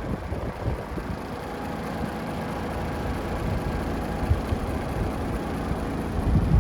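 DAF XF106 truck's Paccar 460 bhp diesel engine idling steadily, with wind rumbling on the microphone.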